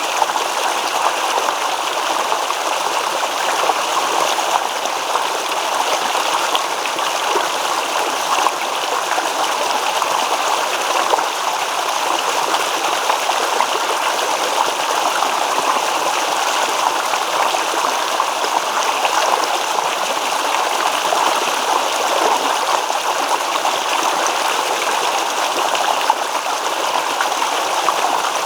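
Small stream babbling and trickling over stones, a steady rush of running water without pause.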